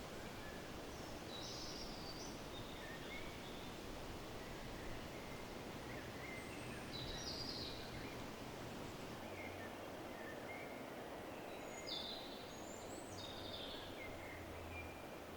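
Small birds chirping in short, scattered calls over a steady background hiss of outdoor ambience.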